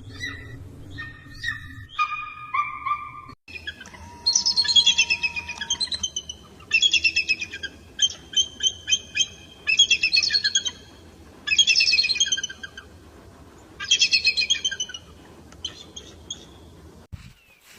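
Eagle calls: brief high whistled notes until an abrupt change about three and a half seconds in. Then a run of loud, rapid, high chittering bursts, each about a second long, repeated every couple of seconds.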